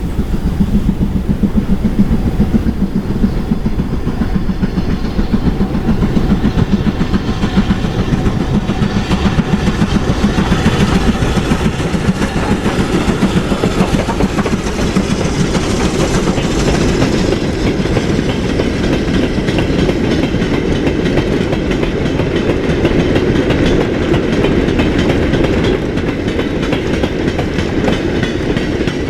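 Steam-hauled train running past at length, its wheels clattering over the rail joints with a steady heavy rumble.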